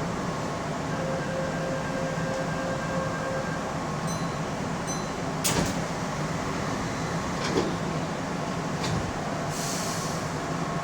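Inside a Keihan Railway local train: a steady low hum, two short high beeps about four seconds in, a sharp knock soon after, and a brief hiss of air near the end.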